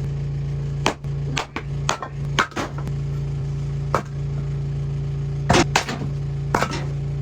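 Small generator engine running with a steady hum, while a series of sharp, uneven knocks and clacks sound over it, a few clustered about a second in and two close together past the middle.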